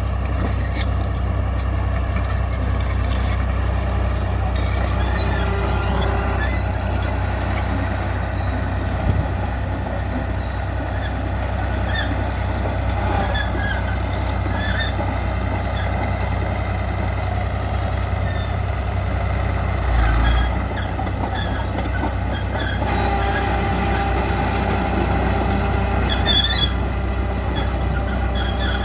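Fiat-Allis AD14B bulldozer's diesel engine running steadily, with a low thump about twenty seconds in.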